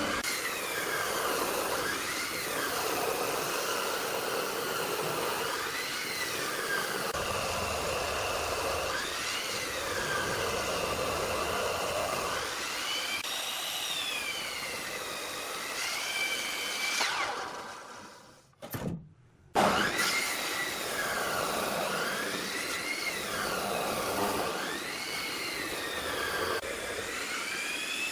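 Electric power tool motor whining while working wood, its pitch sagging and recovering every few seconds as the load changes. The sound drops out briefly about two-thirds of the way through, with a sharp click.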